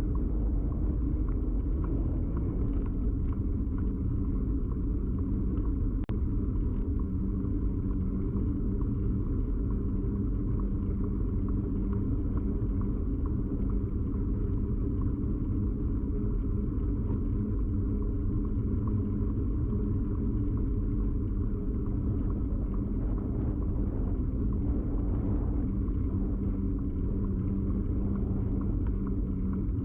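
Steady rumble of a moving bicycle picked up through a camera mounted firmly on the bike: tyre and frame vibration carried into the camera, with a steady low hum running through it and a faint click about six seconds in.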